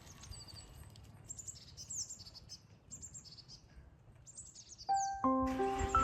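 Songbirds singing in short high chirps and trills. Music with held notes comes in near the end.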